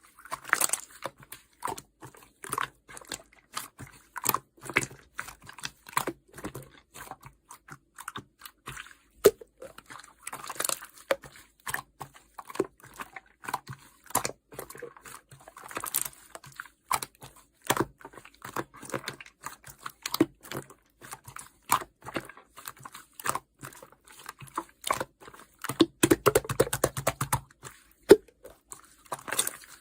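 Yellow clear slime being squished and poked by hand, giving irregular sticky clicks and small air-bubble pops, with a denser run of squishing near the end.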